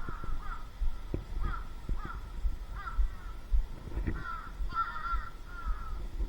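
Birds giving a string of short, harsh, crow-like calls, about two a second and bunched closer together past the middle, over low thuds and rumble.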